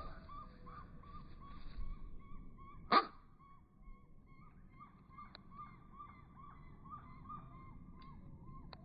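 A bird calling in a steady series of short, evenly repeated notes, about three a second. A single sharp click about three seconds in is the loudest sound.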